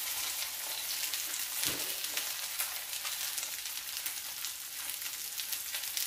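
Cabbage cutlets frying in hot oil in a pan, a steady sizzle with many small crackles. A soft knock about two seconds in.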